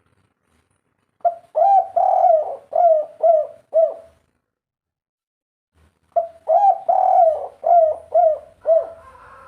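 Spotted dove calling: two cooing phrases, each a quick run of about six notes, with a pause of about two seconds between them. It is the 'kuk 3' song type that Indonesian dove keepers favour.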